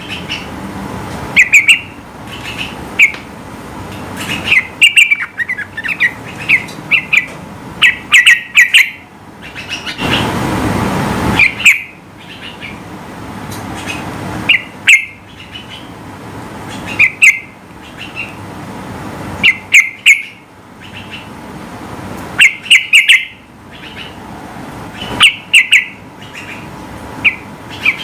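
Yellow-vented bulbul singing loudly: quick clusters of short, sharp chirping notes, repeated every second or two. A brief rushing noise cuts in about ten seconds in.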